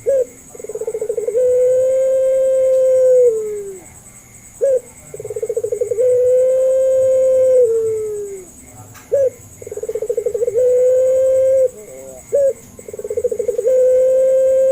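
Puter pelung dove (a domestic Barbary dove) cooing, about four calls in a row: each a short note, then a quick rolling trill, then a long drawn-out coo held for about two seconds that falls away at its end.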